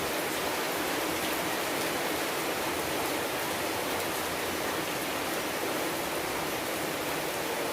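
Steady rain falling, an even hiss of many drops without single distinct hits.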